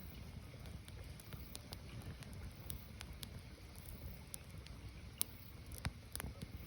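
Firewood burning, crackling with irregular sharp pops over a low steady rumble.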